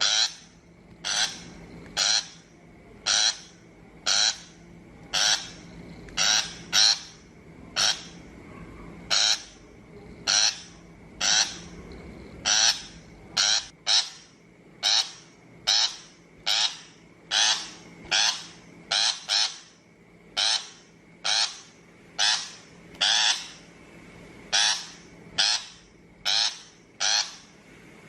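A shrike repeats short, harsh, grating calls, about one a second, sometimes two in quick succession. This is the kind of call played as a lure from a trapping speaker.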